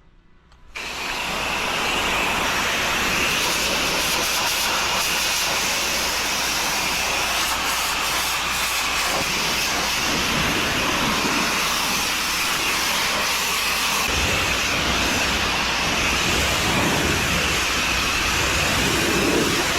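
Pressure washer spraying through an X-Jet nozzle: a steady loud hiss of spraying water that starts abruptly about a second in, with a low hum underneath.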